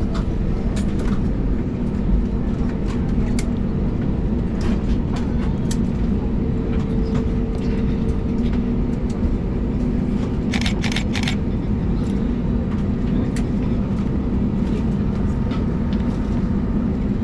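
Steady cabin hum inside a parked Airbus A320neo, with scattered light clicks and knocks, a small cluster of them just past halfway.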